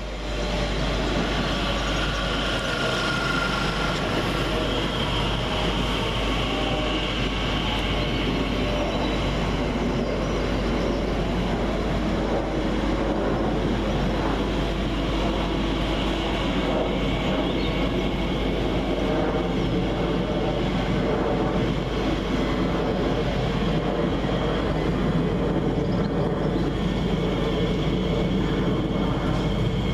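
A train running through the station: steady noise of wheels on the rails with a few faint motor tones, holding level throughout.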